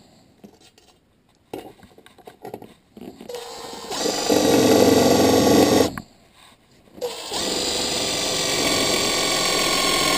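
Electric drill boring into soft sheet metal: a first run starts a little over three seconds in and stops suddenly at about six seconds, then a second, steady run starts about a second later.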